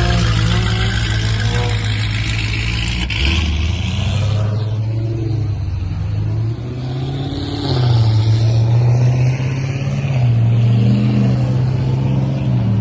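A car engine running close by with a deep, steady tone, its pitch lifting and dropping slightly a few times as the engine speed changes.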